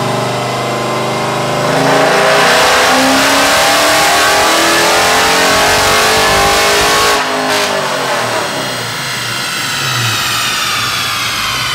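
6.4-litre Hemi V8 of a Dodge Challenger 392, fitted with a Texas Speed Stage 4 cam and long-tube headers, making a full-throttle pull on a chassis dyno. It runs steadily, then about two seconds in the revs climb for about five seconds. The throttle shuts about seven seconds in, and the engine winds down with a falling whine.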